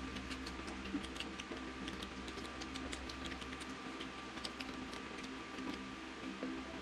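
Close-up eating sounds: chewing and biting into crispy fried chicken, heard as many small irregular clicks and crunches. A faint steady hum and thin tone sit underneath.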